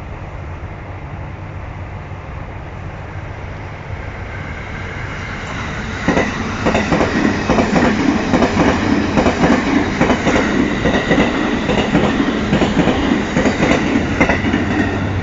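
JR East E657 series electric limited-express train passing at speed: a low rumble swells, then about six seconds in a fast run of wheel clatter over the rail joints sets in and keeps going.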